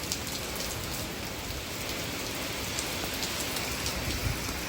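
Steady rain from Hurricane Milton falling, with scattered close drops ticking over the constant hiss.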